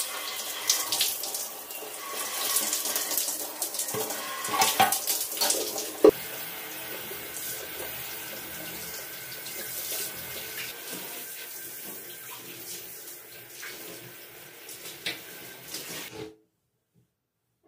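Water tap running into a bathroom sink, with scattered knocks and clatter of things being handled or rinsed under it, the loudest knock about six seconds in. The sound cuts off abruptly near the end.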